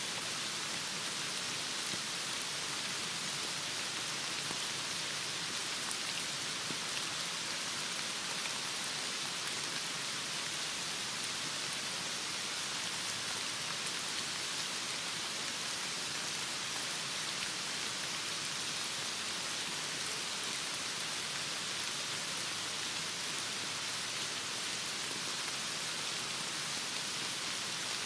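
Heavy rain falling steadily, an even hiss of drops with no thunder or other events.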